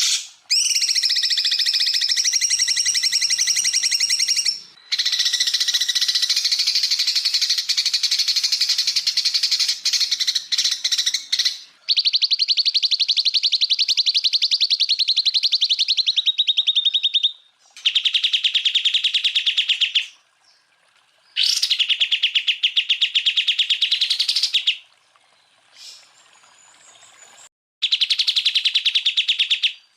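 Greater green leafbird (cucak ijo) singing a string of long, very fast high-pitched trills in the rapid-fire 'tembakan' style. Each trill lasts several seconds, with short pauses between them.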